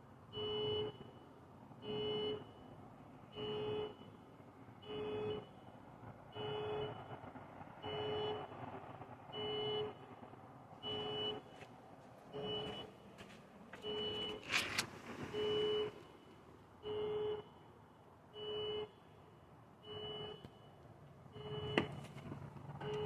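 A vehicle's reversing alarm sounding a steady series of electronic beeps, each about half a second long and spaced about a second and a half apart, over a faint low rumble. There are a couple of sharp clicks about two-thirds of the way in and again near the end.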